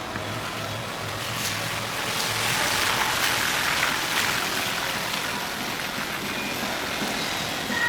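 Rain falling on a city street while a vehicle's tyres hiss past on the wet road, swelling about two seconds in and easing off toward the end.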